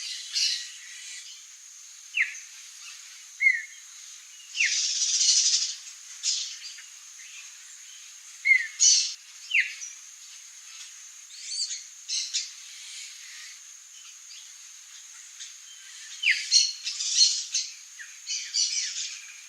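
Songbirds calling: scattered short, downward-slurred notes and several bursts of harsher, scratchy chatter, over a steady high-pitched tone in the background.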